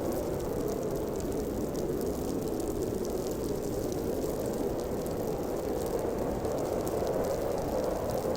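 Snowstorm wind howling steadily, a dense low rush that holds level without gusting up or dying down, with faint scattered ticks above it.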